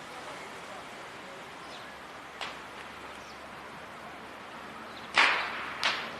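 Fishing rod swished through the air in a cast: two sharp swishes near the end, the first louder and trailing off over about half a second, the second shorter. A steady hiss of wind on the microphone runs underneath.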